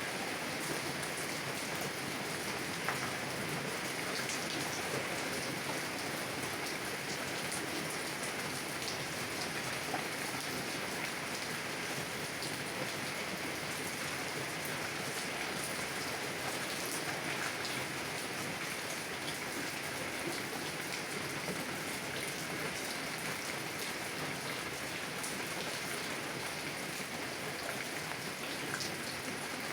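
Heavy rain drumming steadily on a car's windows and body, heard from inside the car, with a dense even hiss and scattered individual drop taps.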